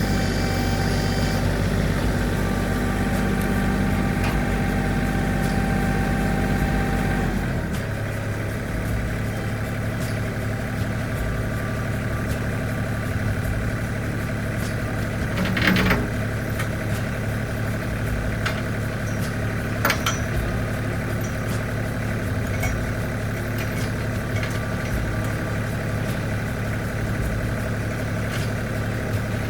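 Tractor engine running steadily, settling to a lower speed about seven and a half seconds in. Two sharp knocks come a few seconds apart past the middle.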